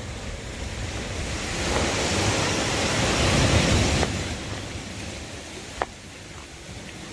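Sea waves surging up the beach: a surf wash that builds for a couple of seconds and fades, with wind on the microphone. A short falling squeak about six seconds in.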